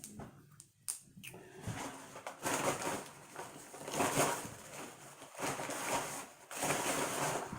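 Rustling of paper food packaging, with a few light clicks and knocks as containers are handled. The rustling comes in several swells about a second apart.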